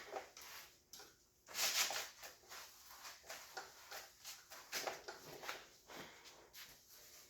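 Scattered light knocks, clicks and rustles of someone moving about and handling things, with a louder rustling burst about a second and a half in.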